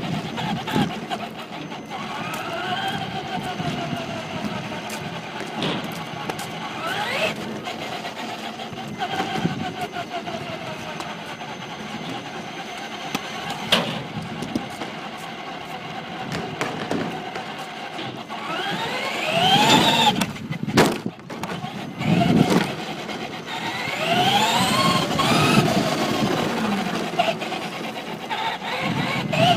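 Traxxas Slash 2WD RC short-course truck's electric motor whining up and down in pitch as the throttle is punched and released, again and again, with tyre noise on pavement and a few sharp knocks.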